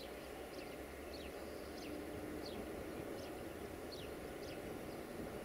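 Freight train of tank wagons rolling by at a distance, a steady low rumble. Over it, a bird gives short falling chirps, roughly one or two a second.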